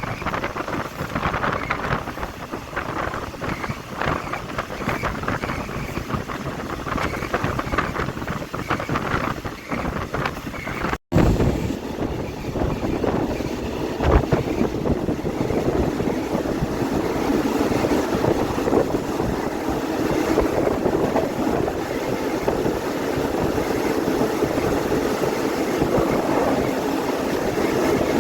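Passenger train running along the track, heard from on board, with wind buffeting the microphone. The sound cuts out for an instant about eleven seconds in, after which a steadier rumble carries on.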